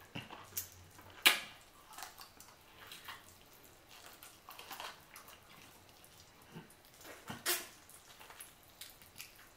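Close-miked wet chewing and mouth sounds of someone eating boiled chicken with the fingers: scattered smacks and sucking, with a sharper smack about a second in and another near the end.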